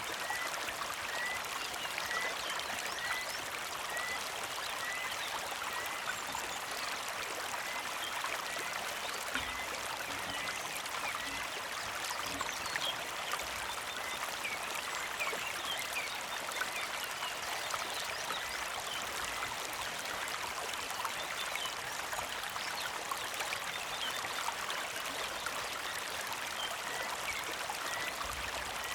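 A small mountain creek flowing and trickling steadily. Birds chirp over it: one repeats a short high chirp about twice a second for the first few seconds, then scattered brief chirps follow.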